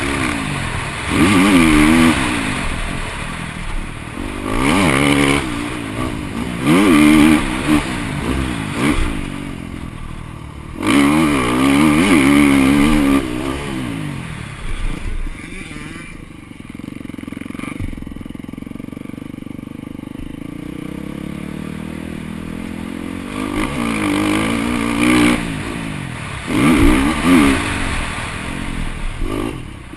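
KTM 350 four-stroke single-cylinder motocross engine, heard close from a helmet camera, revving up and down in repeated bursts as the bike is ridden around the track. Around the middle it runs lower and steadier for several seconds, then revs hard again near the end.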